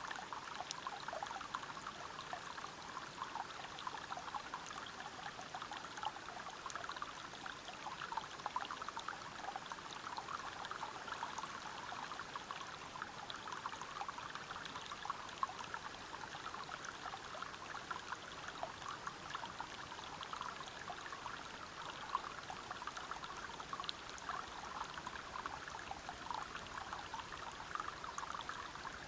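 Small waterfall or river splashing and burbling over rocks: a steady rush of falling water with many small splashes.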